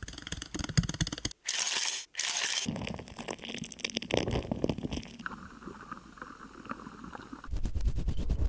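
A quick run of different close-miked ASMR trigger sounds, crackling, crinkling and tapping textures, each lasting only a second or two before it cuts abruptly to the next, with two brief dropouts early on and a low rumble near the end.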